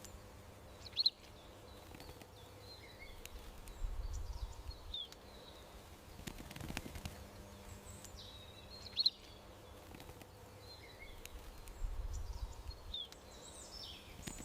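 Small songbirds chirping in short, scattered calls, with a sharp chirp about a second in and again near nine seconds. They sit over a faint steady outdoor background, with a brief low rumble around four seconds and again around twelve.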